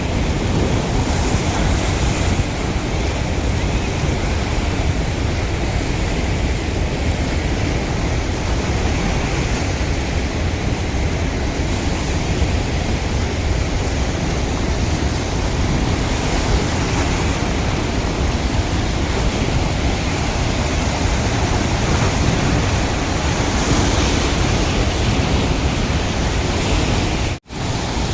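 Steady, loud rushing of water pouring out through a dam's open spillway gates, with a brief cut-out of the sound near the end.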